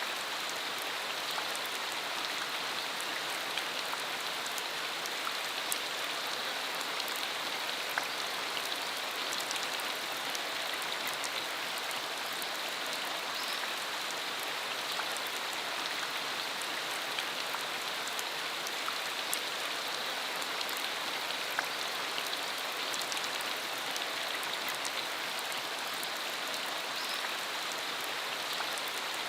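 Steady rain falling, a constant hiss with many scattered sharp drop taps.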